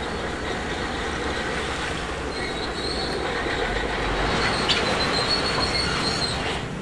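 Shantui DH17C2 crawler bulldozer working, its diesel engine running steadily under its steel tracks' clanking. A high metallic squeal from the tracks rises about halfway through and holds for a few seconds.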